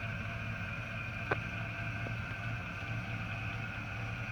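Chevy Avalanche's V8 idling, a steady low hum, with a single sharp click about a second in.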